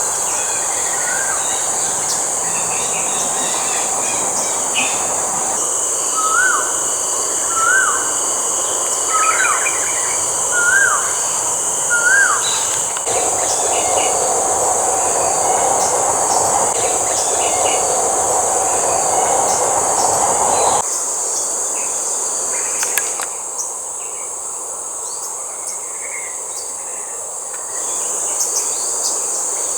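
Steady high-pitched insect drone. A bird gives a run of short upswept call notes, one about every second and a half, over a low rumble that cuts off suddenly later on.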